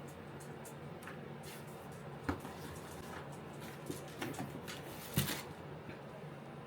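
Faint rustling and a few soft knocks and taps as items are handled and lifted out of a gift box, the most distinct knock about five seconds in.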